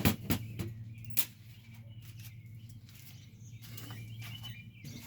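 A few sharp knocks and clunks in the first second or so, a fishing rod holder being worked loose from a plastic kayak hull, over a steady low hum and faint birdsong.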